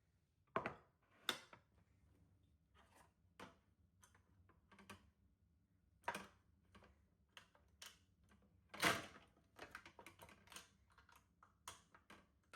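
Irregular light knocks and clacks of objects being handled and set down, with a few louder knocks about half a second in, just after a second, and near nine seconds.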